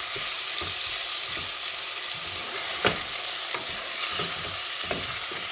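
Chicken thigh pieces sizzling steadily in hot avocado oil in a soup pot as they brown, with a few sharp clicks from the utensil stirring them.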